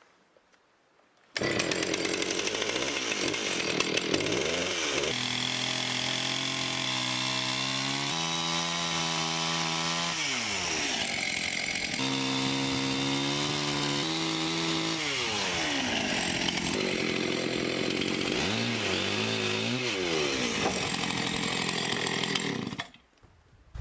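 Gas engine-driven saw cutting wood, its engine note dipping and rising several times as it works through the cut. The sound starts and stops abruptly.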